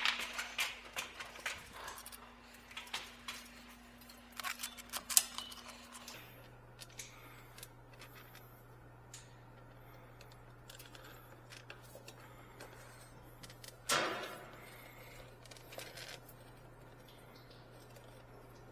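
Light clicks, taps and small metallic knocks from handling tools and parts, busiest in the first few seconds, with a louder scrape or rustle about fourteen seconds in. A faint steady hum runs underneath and drops to a lower pitch about six seconds in.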